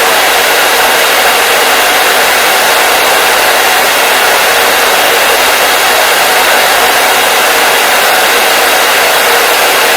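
Hair dryer running steadily: a loud, even rush of air noise that does not change.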